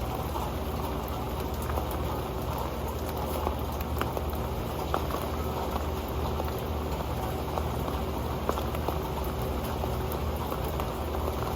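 Steady rain falling on an old pan: a dense patter, with single drops ticking sharply on the pan.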